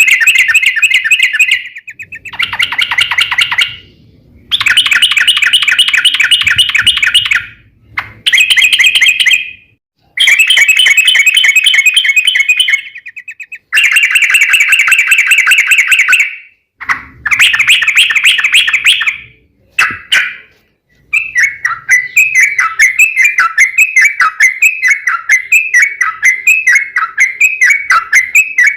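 Yellow-vented bulbul (trucuk) calling loudly in long rapid chattering rolls, each burst one to three seconds long with brief gaps between. Near the end it switches to a quick, even string of repeated chirps. The recording is played as a lure to set other trucuk birds singing.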